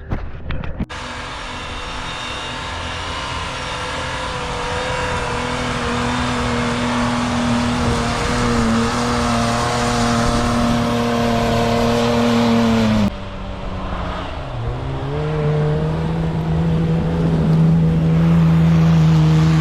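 A petrol 4x4's engine revving hard under load as it pushes through snow. The engine note holds high and creeps up in pitch and loudness, drops suddenly about two-thirds of the way through, then comes back up to a steady high drone.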